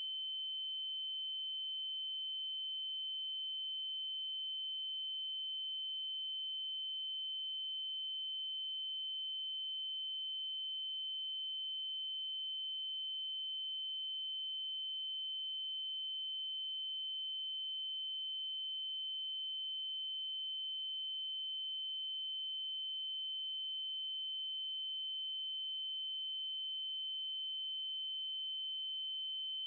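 Synthesized 3072 Hz triangle-wave tone: one high-pitched note held steady without a break.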